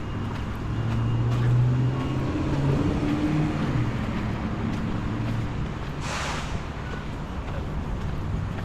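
A motor vehicle's engine humming close by in street traffic, loudest about a second and a half in, followed by a short hiss about six seconds in.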